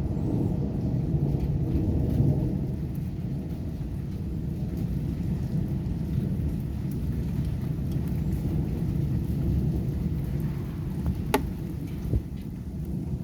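Thunderstorm: steady heavy rain with a continuous low rumble, and one sharp click about eleven seconds in.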